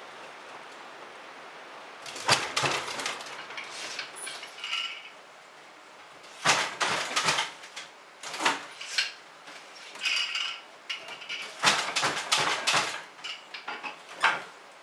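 Dishes and cutlery clattering and clinking in short irregular bursts, about six of them, over a steady hiss in the background.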